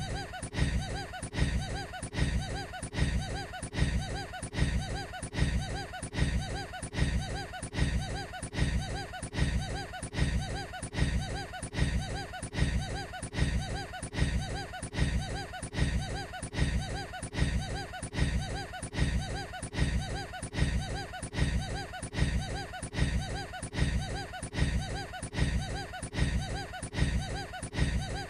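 A man's odd, weird-sounding laugh: one short laugh repeated on a seamless loop, about once every 0.7 seconds, with no change.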